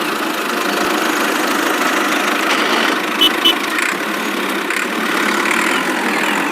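Tractor engine running steadily at idle, with two short high beeps a little after three seconds in.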